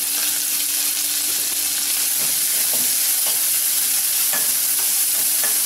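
Chopped onion, carrot and green chilli sizzling in hot oil in a nonstick kadai, stirred with a spatula that scrapes and ticks against the pan.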